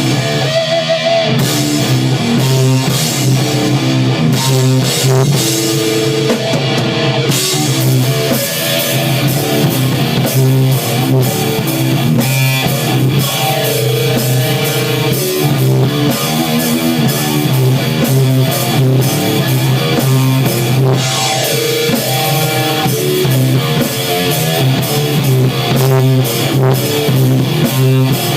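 Rock music with electric guitar and a drum kit, played loud and steady without vocals.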